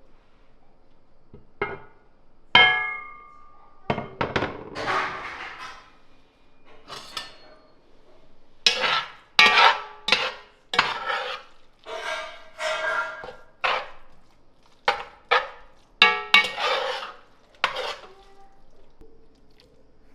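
Kitchen dishes and utensils clattering as they are handled: a string of knocks and scrapes, with one ringing metallic clink a few seconds in.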